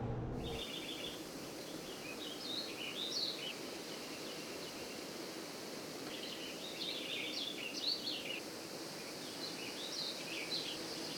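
Small birds singing and chirping in short twittering phrases over quiet outdoor background noise. A low vehicle sound fades out in the first half second.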